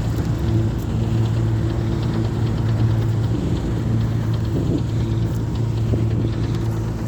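New Holland TC5070 combine harvester's diesel engine running steadily under load while harvesting wheat, a constant low drone over a dense mechanical rushing noise.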